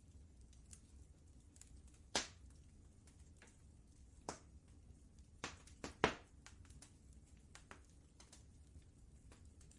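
Wood fire crackling in a fireplace: scattered sharp pops and small clicks at irregular intervals, the loudest about two seconds in and a cluster around six seconds, over a faint low rumble.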